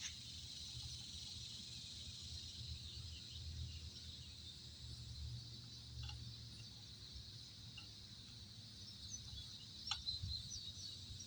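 Quiet background: a steady high insect chorus over a low, uneven rumble, with a sharp click near the end.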